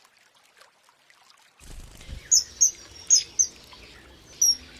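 Five short, sharp, high-pitched bird calls over a faint steady outdoor background, which comes in about a second and a half in after near silence.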